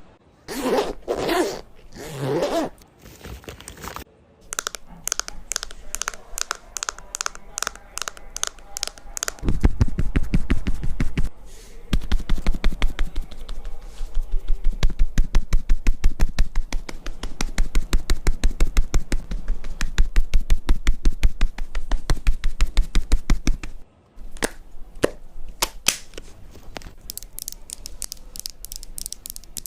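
Close-miked ASMR makeup-application sounds: a few whispered words at the start, then quick clicking and tapping, then a long run of even pats against the microphone, about five a second, as makeup is patted on. The patting stops briefly about a third of the way in and again near the end, giving way to scattered clicks.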